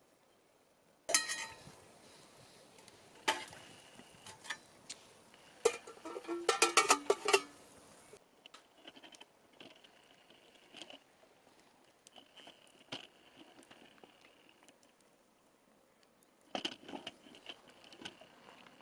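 Metal clanks and clinks of a mess tin and utensils being handled: a first clank about a second in, another a little after three seconds, then a quick run of clinks with ringing tones around six to seven seconds, and a few more near the end. A faint high steady tone comes and goes in the quieter stretch between.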